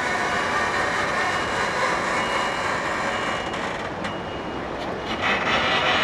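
Steady running noise of heavy vehicles, with short, high warning beeps repeating at intervals; the noise grows louder about five seconds in.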